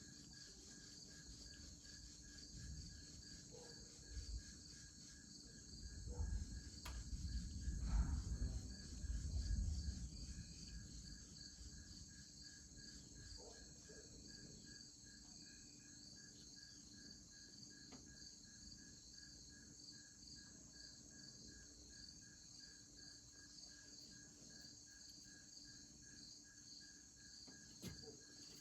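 Crickets and other insects chirping steadily in fast pulsed trills, with a low rumble of distant thunder that swells about six seconds in and fades out by about ten seconds.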